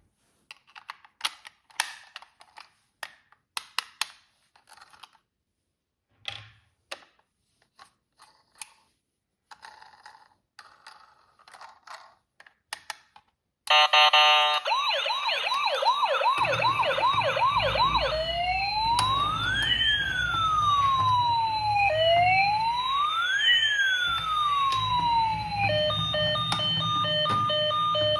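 Scattered clicks and rustles of a toy being handled. About 14 seconds in, a toy vehicle's electronic siren starts suddenly and loudly: first a fast yelp, then slow rising and falling wails, and near the end steady repeated beeps, with a low hum underneath.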